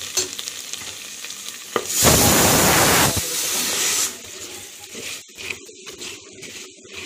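Small onions and drumstick pieces frying in oil in a clay pot, sizzling steadily while being stirred, with a few sharp clicks of the spoon, just after chilli powder has gone in. About two seconds in, a loud hiss swells for about a second, then eases off. The sizzle settles to a quieter crackle near the end.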